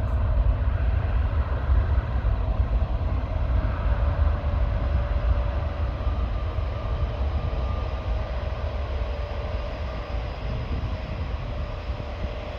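Jet airliner engines at high thrust for a takeoff, heard as a steady low rumble with a steady whine on top, slowly easing off.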